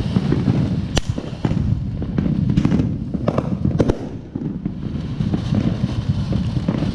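TNT Short Stack ground fountain firework spraying sparks with a continuous crackle. Several sharp firework bangs cut through it: a strong one about a second in and a cluster between two and four seconds in.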